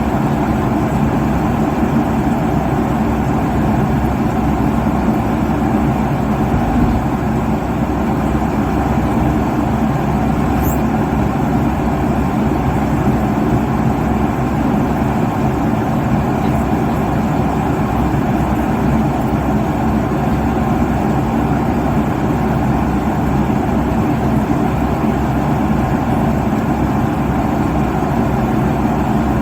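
Steady cabin noise of a jet airliner cruising at altitude: the even rush of engines and airflow, low and full, unchanging throughout.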